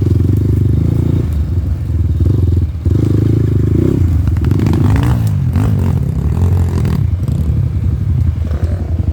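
Off-road motorcycle engine running hard under load, its revs rising and falling, with the throttle briefly shut just before the 3-second mark. Clattering and scraping are heard along with it.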